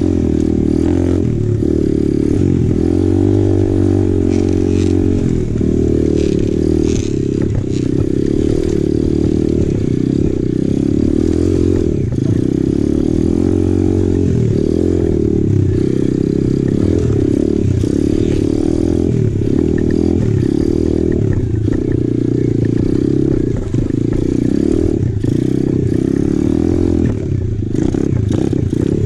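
2020 Apollo RFZ 125cc pit bike's four-stroke single-cylinder engine running under way, its pitch repeatedly rising and falling as the throttle is worked.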